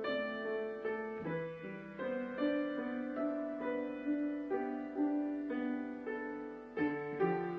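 Slow piano music: single notes and chords struck about every half second, each fading before the next.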